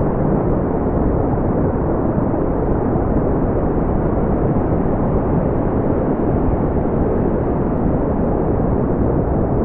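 Continuous brown noise: an even, deep hiss with most of its energy low down, thinning out toward the highs, with no changes or events.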